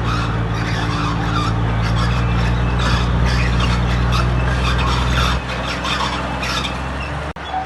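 Diesel engine of a crawler bulldozer running under load, with irregular squealing and scraping from the steel tracks. The engine note drops about five and a half seconds in, and the sound cuts out for an instant near the end.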